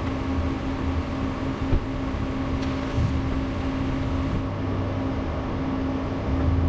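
Steady hum and low rumble of a motor vehicle running, with one constant pitched tone.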